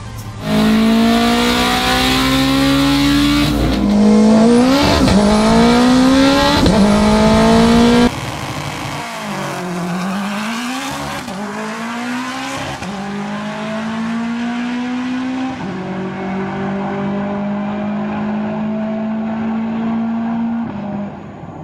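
The turbocharged stock Honda K20 four-cylinder of an Acura RSX making full-throttle quarter-mile drag pass. The engine note climbs through each gear and drops sharply at several upshifts. About eight seconds in it becomes quieter and more distant, its pitch still climbing slowly as the car runs away down the strip, and it fades near the end.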